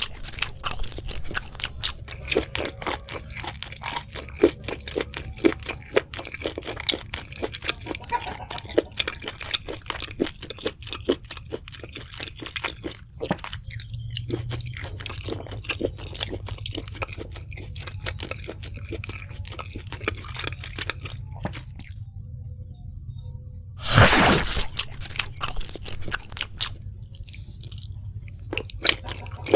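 Close-up eating sounds: a person biting into and chewing crispy fried food, a fast run of crunches. The crunching pauses briefly twice, and a loud crunching bite comes near the end.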